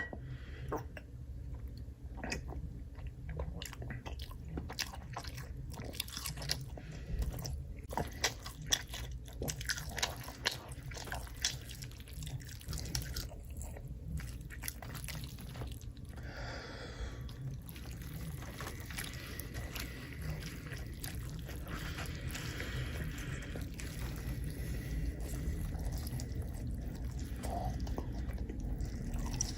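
Close-miked eating sounds: steady chewing with many quick wet mouth clicks, and a longer slurping-like sweep about halfway through.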